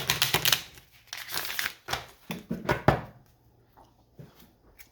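Tarot cards being shuffled and handled, a papery rustling in several bursts that dies away about three seconds in, leaving a few faint ticks.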